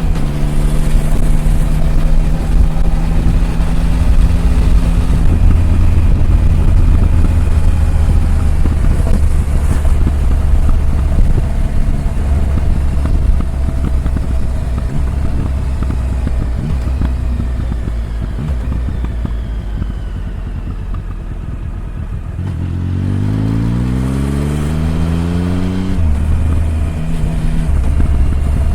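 Triumph Tiger 1050's three-cylinder engine running under way. It eases off for a few seconds, then accelerates with a rising pitch about two-thirds of the way in. The pitch drops suddenly at a gear change, and the engine settles back to a steady run.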